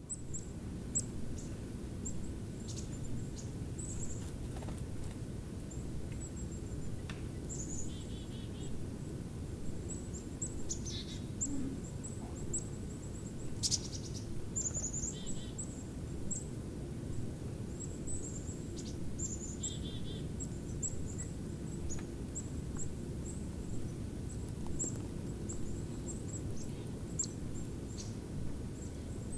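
Small birds calling: many short, very high-pitched calls scattered throughout, with two brief rapid trills, over a steady low background rumble.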